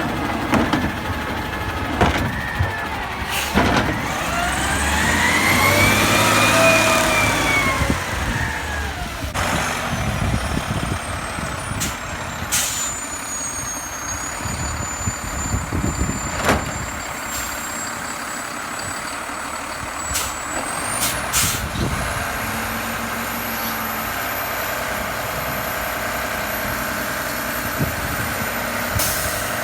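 Garbage truck at work: its diesel engine revs up and falls back about four seconds in, with scattered sharp bangs and clanks over its steady running.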